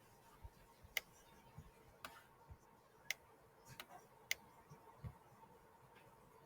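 Near silence with a handful of faint, sharp clicks at irregular intervals about a second apart, and a few soft low thumps between them.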